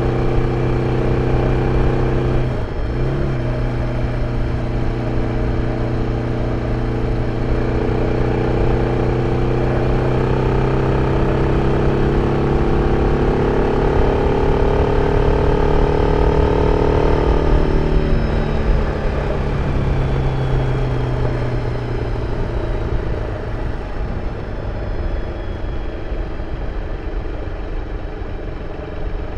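BMW F 650 CS Scarver's single-cylinder engine through its original exhaust, pulling under way: a brief dip at a gear change about three seconds in, then a steady, slowly rising note. About two-thirds of the way through the throttle closes and the engine note falls away and quietens as the bike slows.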